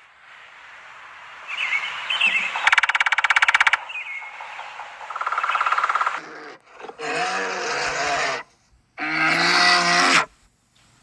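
A succession of animal calls: a hissing, rapidly pulsing rasp about three seconds in, then two low, steady moos from a cow in the second half, each about a second and a half long.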